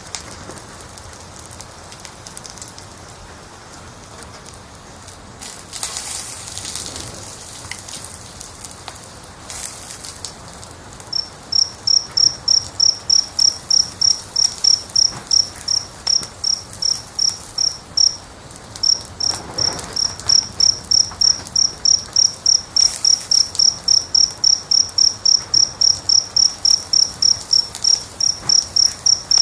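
Fireplace fire crackling softly with scattered pops. A cricket chirps at about three chirps a second from about a third of the way in, pausing briefly near two-thirds through, and is the loudest sound.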